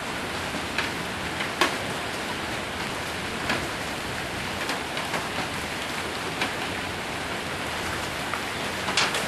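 Heavy rain mixed with hail drumming on a roof: a steady dense hiss with scattered sharp taps of single stones hitting, the loudest near the end.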